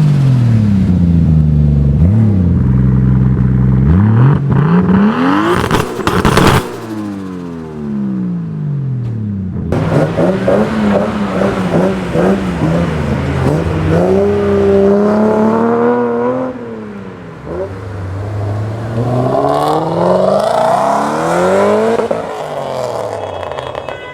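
Tuned high-performance car engines revving and accelerating, the engine pitch climbing and dropping again and again as through gear changes. The sound changes abruptly a couple of times, as from one car to another.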